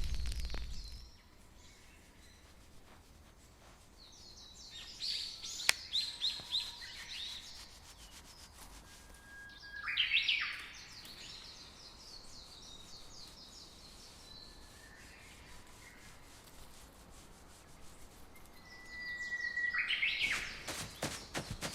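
Small birds singing in three short bursts of quick chirps and whistles, over a faint background hiss; one sharp click sounds about six seconds in.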